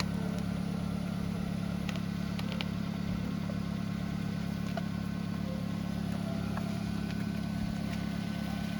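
A steady engine hum, running evenly.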